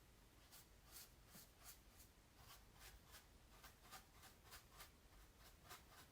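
Fingers lightly tapping and tracing over an acrylic painting on canvas, making soft, quick, scratchy touches about two or three times a second.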